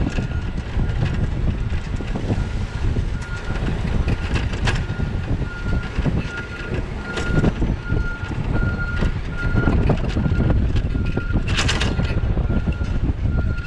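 A vehicle's reversing alarm beeping at one steady pitch in an even on-off rhythm through most of the stretch. Under it runs a loud low rumble of wind on the microphone and a bicycle riding over the street, with occasional knocks and rattles.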